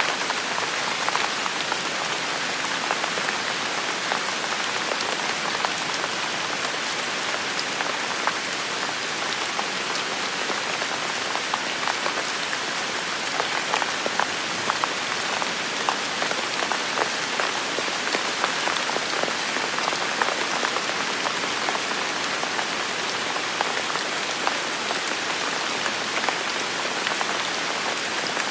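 Heavy rain falling steadily in a forest, a dense even hiss with many sharp individual drop hits standing out throughout.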